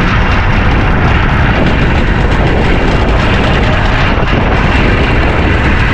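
Strong wind rumbling and buffeting on the microphone aboard a small open boat in a 30-knot breeze: a loud, steady roar heaviest in the low end.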